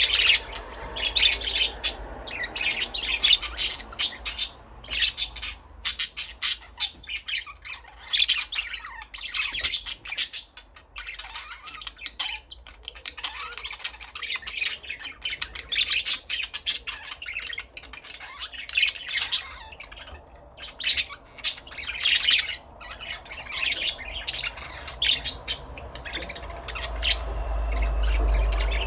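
Budgerigars chattering: rapid, high chirps, warbles and squawks in dense bursts throughout, with a low rumble swelling near the end.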